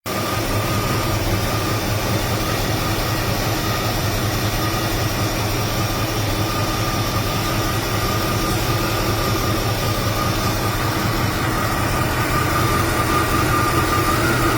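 Chevrolet 327 cubic-inch small-block V8 of a 1967 Impala running steadily at an even speed, a deep rumble with a steady high whine over it.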